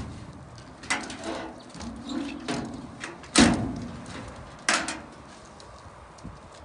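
A few sharp knocks, the loudest about three and a half seconds in, with others about a second in and near five seconds, and softer handling clatter between.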